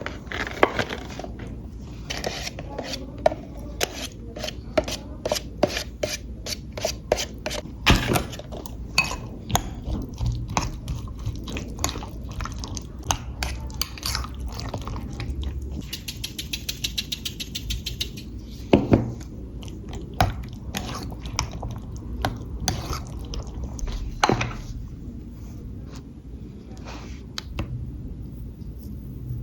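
Cutlery and dishes clinking and knocking in irregular bursts, with a brief denser scraping rattle around the middle.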